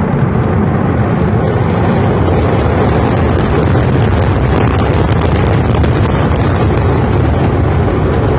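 Rocket roar from a launch: a loud, steady deep rumble with crackling.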